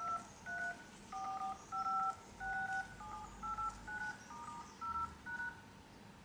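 Phone keypad dial tones from an iPhone: about eleven short two-note beeps, one every half second or so, stepping through the keys in order. This is typical of each number key being tapped in turn to test the touchscreen after a screen replacement.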